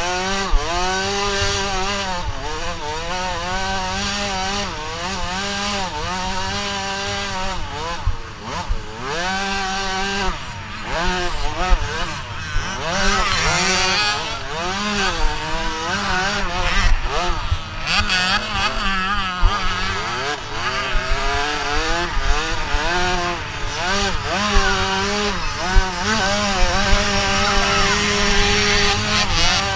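Several motocross dirt bikes running on a track, their engines revving up and falling back again and again, with more than one engine note overlapping at different pitches.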